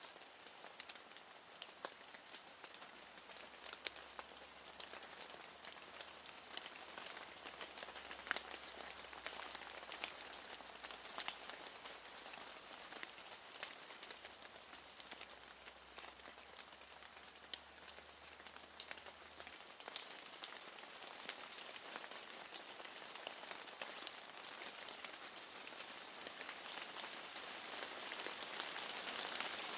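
Steady rain on a window: a soft, even hiss dotted with many small drop ticks, swelling slightly near the end.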